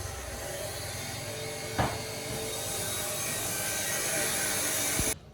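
A steady hissing rasp from workshop tool work, with one sharp knock about two seconds in; the noise cuts off suddenly near the end.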